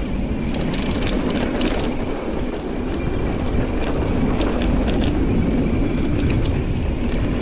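Nukeproof Reactor full-suspension mountain bike ridden fast over a rough dirt trail: a steady rumble of tyres and wind on the microphone, broken by scattered clicks and rattles from the bike, which the rider puts down to loose cable rattle in the internal routing.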